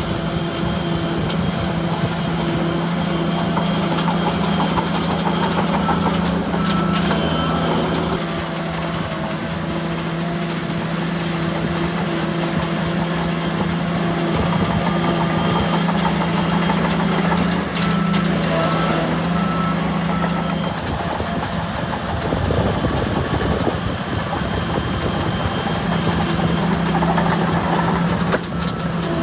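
Heavy diesel engine of a bulldozer running steadily. Its steady note drops away for a few seconds about two-thirds of the way through and then comes back, with faint intermittent beeping over it.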